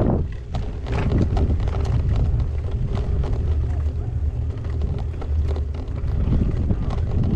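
Wind buffeting an action camera's microphone on a moving gravel bike, a steady low rumble. Frequent short clicks and rattles come from the bike and its tyres running over rough ground.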